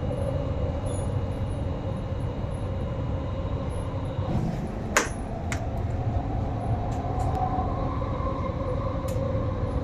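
Metro train running, heard from inside the carriage: a steady low rumble of wheels on track, with a single sharp click about five seconds in and a motor whine that climbs in pitch in the second half.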